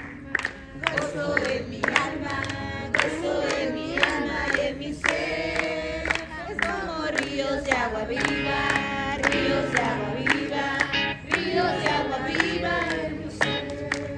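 A group of people singing a worship song together, with sharp, regular hits keeping a steady beat.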